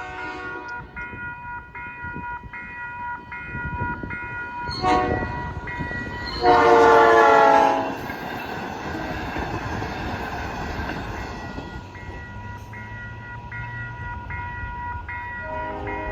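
South Shore Line double-decker electric commuter train approaching and passing a grade crossing: a short horn toot, then one loud horn blast of over a second, followed by the rumble of the cars going by. The crossing warning bell rings steadily in even strokes throughout.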